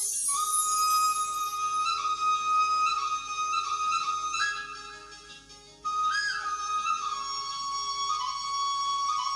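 A flute melody of long held notes over a soft accompaniment. It fades down around the middle and starts again about six seconds in.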